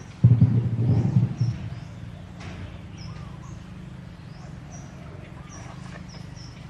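Small birds chirping over and over, with short high chirps about twice a second over a steady low hum. A loud low rumble, like wind buffeting the microphone, fills the first second and a half.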